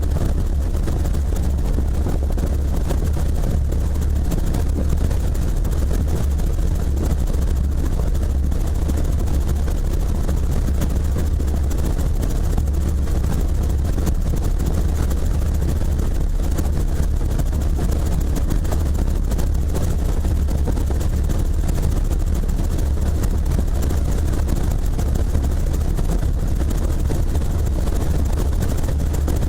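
Helicopter rotor and engine noise, a steady, unbroken drone.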